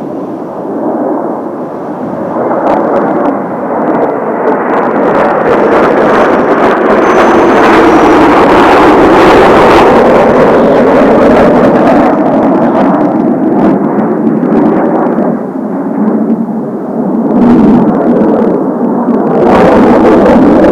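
Jet engine noise from Blue Impulse Kawasaki T-4 jet trainers flying over. It builds over the first few seconds into a loud, rushing roar that peaks near the middle, eases off, then swells again near the end as more aircraft pass.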